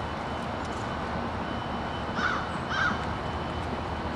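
Two short bird calls about half a second apart, a little over two seconds in, over steady background noise.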